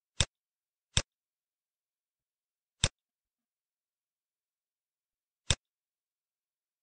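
Four separate sharp clicks of a computer mouse, spread unevenly with silence between them.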